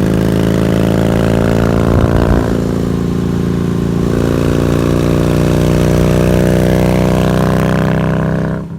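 An engine running at a steady pitch, with a brief rougher patch about two seconds in.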